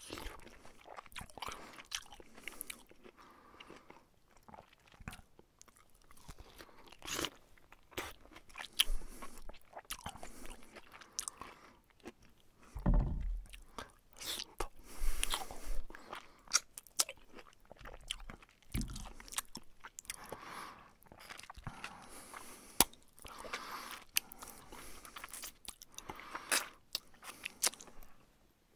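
A man chewing a mouthful of taco close to the microphone: irregular wet clicks and crunches of chewing, with a couple of duller, deeper thumps about halfway through.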